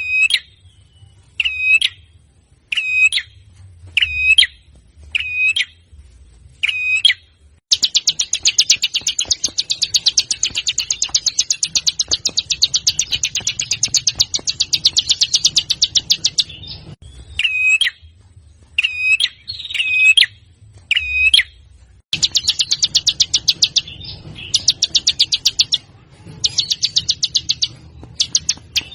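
Songbird song: sharp, high calls repeated about once a second, then a long, fast, rattling trill lasting about nine seconds. Calls come again, then more bursts of the rapid trill near the end, in the harsh, rapid style that bird keepers call 'tembakan kasar'.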